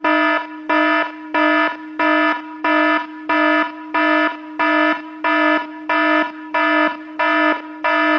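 Electronic alarm sound effect: a buzzy, steady-pitched tone beeping in a fast, even rhythm of about one and a half beeps a second, starting suddenly.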